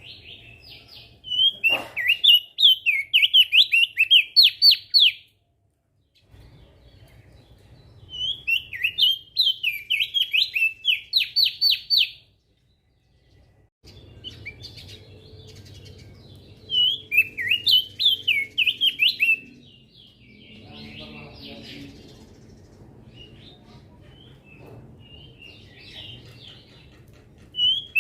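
Opior jambul (crested white-eye) singing in loud bursts of rapid, sweeping whistled notes, each phrase lasting a few seconds, about four phrases with softer twittering in the gaps.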